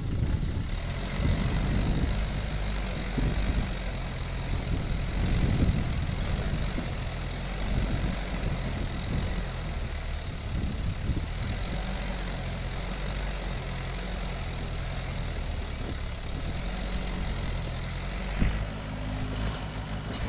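Diesel engine of a JCB 3DX backhoe loader working under load while digging and loading mud, its note shifting up and down, with a steady high hiss over it.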